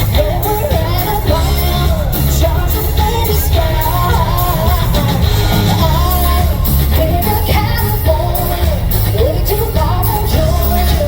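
Live country band playing loud amplified music with a lead vocal singing a melody over it, in a concert hall.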